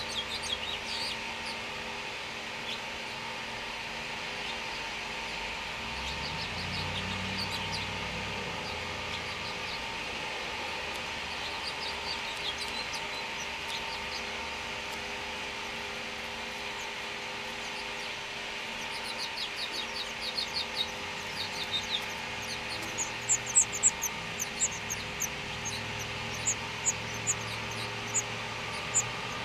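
House finch nestlings' high, thin begging chirps. They come scattered and faint at first, then in a quick, louder run over the last ten seconds.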